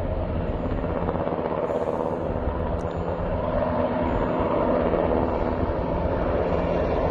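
Firefighting helicopter running overhead: a steady drone of engine and rotor.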